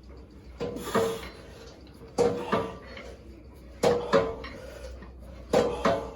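Gym weights clanking in a steady rhythm with each repetition of a drop set, a pair of metallic knocks with a short ring about every second and a half, four times.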